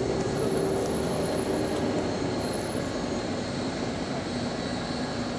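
Bus running with a steady engine rumble, a low hum that fades about two seconds in, and a faint high-pitched whine that comes and goes.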